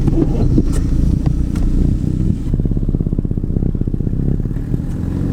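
Turbocharged car engine running, with a fast, even ticking from an exhaust leak that the owner believes is at the downpipe's V-band connector. It eases off a little about halfway through.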